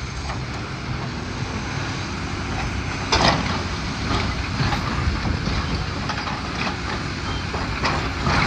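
Heavy demolition machinery running steadily, with a loud crash about three seconds in and a few lighter knocks near the end.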